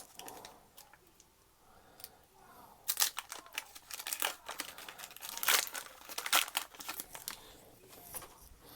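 Foil Pokémon booster pack wrapper being torn open and crinkled by hand. A run of sharp crackles and rips starts about three seconds in.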